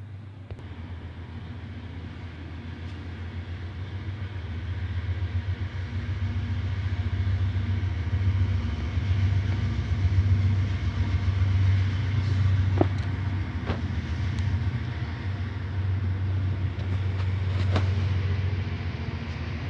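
A low, steady rumble that grows louder over the first several seconds and holds, with a few faint clicks near the middle and toward the end.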